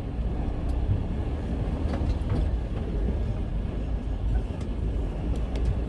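Semi truck's diesel engine running with a steady low rumble as the truck creeps forward, with a few faint clicks and rattles.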